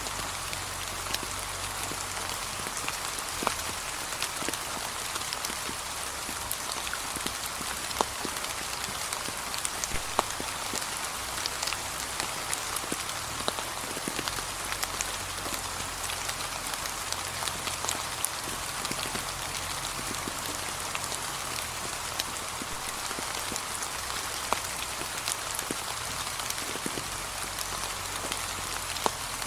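Gentle rain falling steadily on fallen leaves, a soft even hiss with scattered sharp drop taps.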